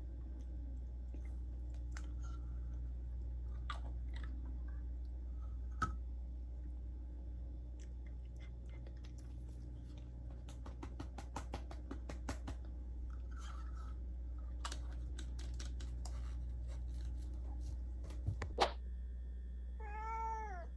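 A cat chewing and licking, with irregular small clicks and crunches that come thickest in the middle. A short meow near the end.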